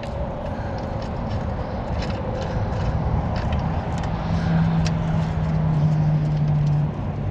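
Scattered light metal clicks and clinks as a worn spring on a lawn mower's striping-kit mount is worked into place, over a steady low rumble. A steady hum joins in a little past the middle for a couple of seconds.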